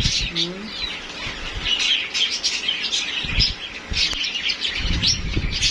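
Many small cage birds in an aviary chirping at once, a dense, continuous chatter of short high chirps. Low rustling and a few soft knocks come and go, loudest near the start and near the end.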